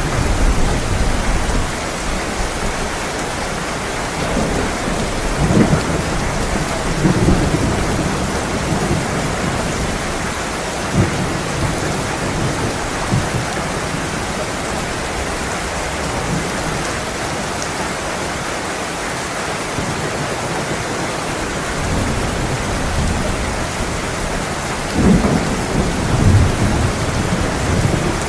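Heavy rain falling steadily in a thunderstorm, with rolls of thunder rumbling low a few times, the strongest near the end.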